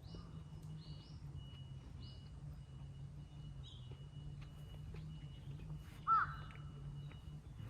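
A crow caws once, loudly, about six seconds in, over a small bird's short high calls repeating roughly once a second early on and a steady low hum.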